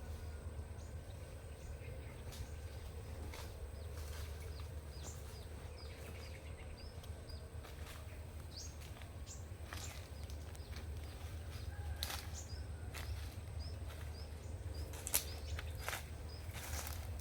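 Outdoor ambience: a steady low rumble under small high bird chirps repeating every second or so, with a few sharp clicks in the second half.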